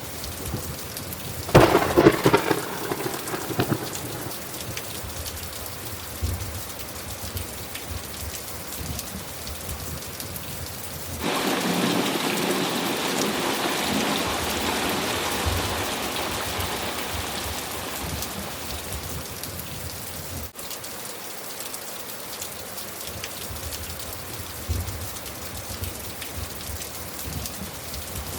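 Thunderstorm: steady rain with thunder. A sharp, loud thunderclap comes about two seconds in, and about eleven seconds in a long rolling peal starts suddenly and slowly fades over the next several seconds.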